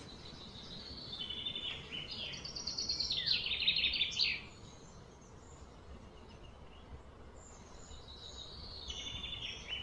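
A bird singing: a long phrase of rapid, repeated high notes that step down and up in pitch over about four seconds, then a shorter phrase near the end, over a faint steady background noise.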